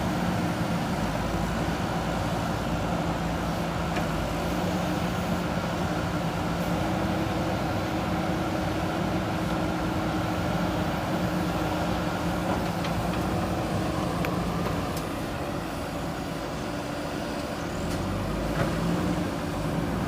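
Diesel engine of a JCB backhoe loader running steadily under work, its tone easing briefly about three-quarters of the way through, with a few faint knocks.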